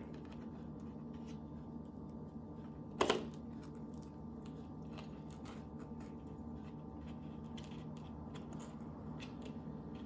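Small handling clicks from gingerbread kit pieces over a steady low hum, with one sharp knock about three seconds in.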